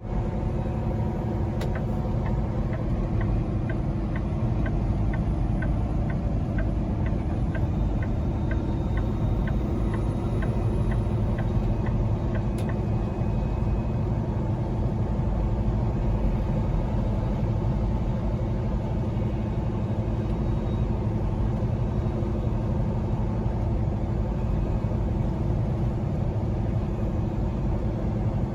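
Peterbilt semi truck's diesel engine running with a steady low rumble, as heard from inside the cab while driving. From about two seconds in to about twelve seconds in, a regular light ticking sounds about twice a second.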